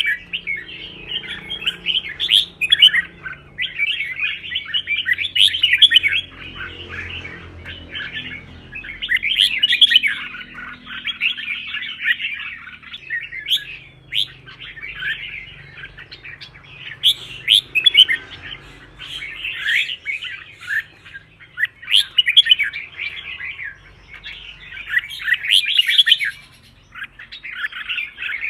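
Red-whiskered bulbul singing its competition song: fast, chattering, warbling phrases of one to two seconds, repeated one after another with short pauses between.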